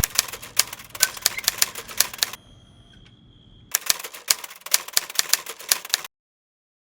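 Typewriter key-clacking sound effect: two runs of quick, irregular clicks with a short pause between, then cut off abruptly.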